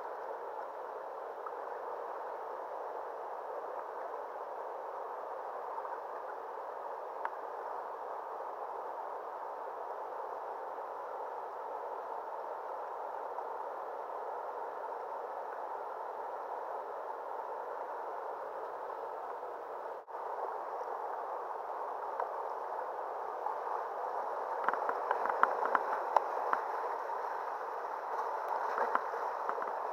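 Steady rush of river water, with splashing and crackling that grows louder in the last few seconds.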